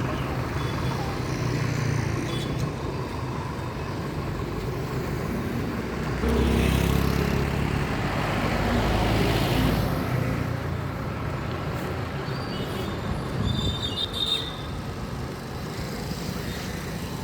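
Road traffic: a steady rumble of passing vehicle engines and tyres, swelling as a heavier vehicle passes close about six seconds in and fading again after about four seconds.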